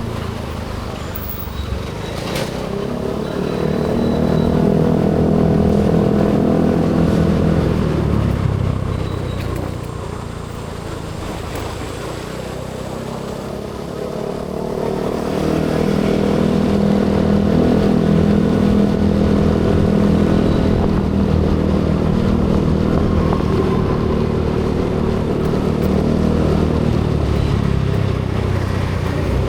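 Motorcycle engine running on the road, swelling as it pulls harder about three seconds in, easing off around ten seconds in, then pulling again from about fifteen seconds on.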